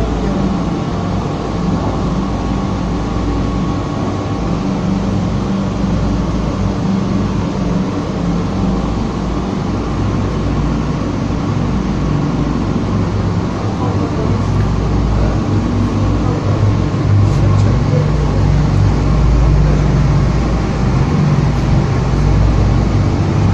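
Used engine oil recycling machinery running: a loud, steady motor drone with a deep low hum, a little louder from about two-thirds of the way in.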